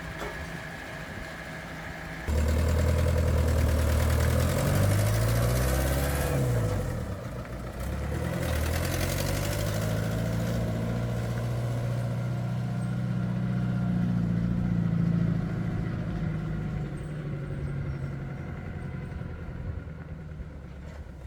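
A heavy earthmoving machine's diesel engine running close by. It gets suddenly louder about two seconds in and its pitch rises and falls for a few seconds. It then runs steadily and fades near the end.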